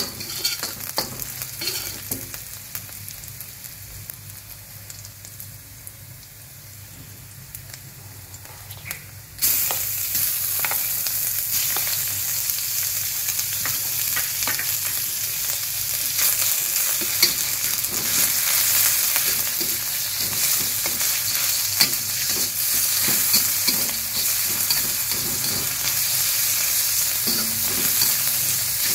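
Stir-frying in a stainless steel wok: a metal spatula scrapes and taps the pan while onion and garlic sizzle quietly in oil. About nine seconds in, sliced raw meat goes into the hot wok and the sizzle jumps suddenly much louder, then hisses steadily under continued scraping and stirring.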